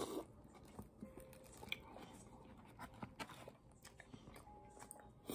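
A short slurp from a foam cup of birria broth at the very start, then faint chewing and wet mouth clicks.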